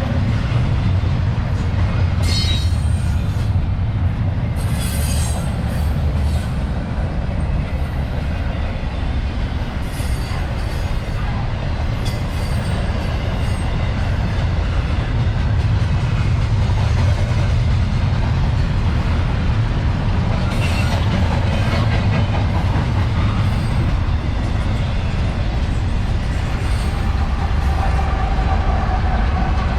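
Long CSX intermodal freight train rolling past, a steady low rumble of wheels on rail with short bursts of wheel squeal scattered through it, several near the start and one a little after the middle.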